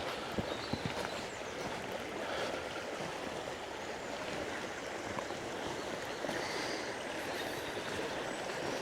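Fast-flowing river water rushing steadily over rocks, with a few light knocks in the first second.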